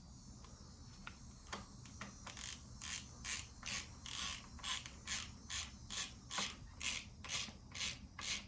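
Socket ratchet worked back and forth to unscrew the air-spring top cap of a RockShox Recon suspension fork: a steady run of short ratcheting clicks, about three strokes a second, faint at first and steady from about a second and a half in.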